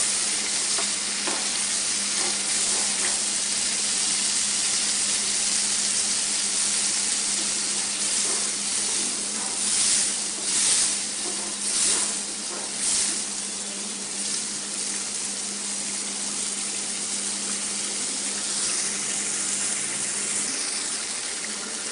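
Spice masala sizzling in hot oil in a metal pan, a steady frying hiss, while a spatula stirs and scrapes it, with several louder scrapes around the middle. The stirring stops near the end and the sizzling carries on.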